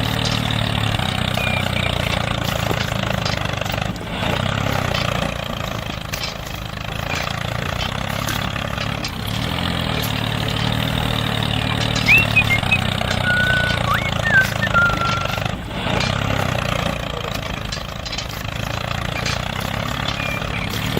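Mini tractor's small engine running steadily with an even, pulsing drone. A few brief high squeaks come near the middle.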